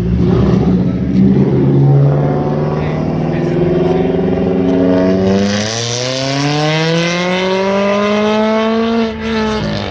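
Car engine accelerating, its pitch climbing steadily for several seconds, then dropping sharply near the end as the driver lifts off or shifts.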